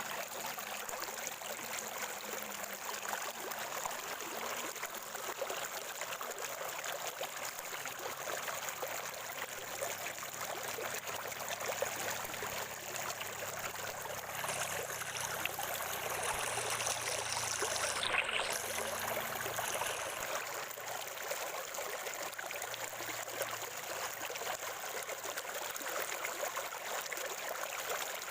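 Water from a natural spring flowing and trickling steadily, with a brief swell of sweeping hiss a little past halfway.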